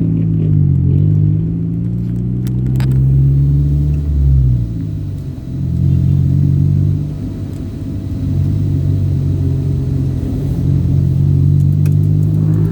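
Vehicle engine running during a drive, a low rumble whose pitch drops and climbs again as speed and gears change, most clearly about four to five seconds in.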